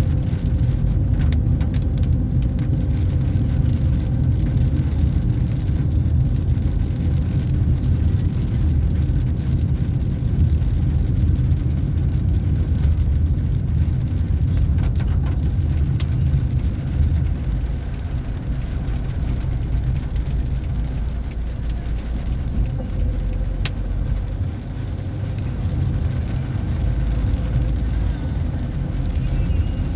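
A car driving, a steady low rumble of engine and road noise that eases a little past the middle, with a couple of brief sharp clicks.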